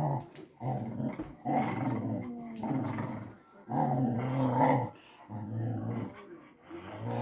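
Dog making a series of about six drawn-out, low, rumbling growls, each about a second long, rising and falling like a grumbling, talking growl.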